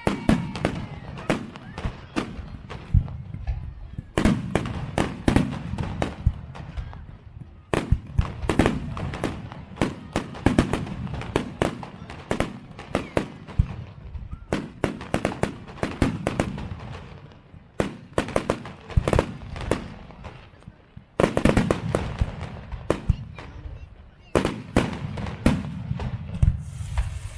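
Fireworks display: aerial shells bursting in rapid, irregular volleys of sharp cracks and deep booms, with short lulls between barrages.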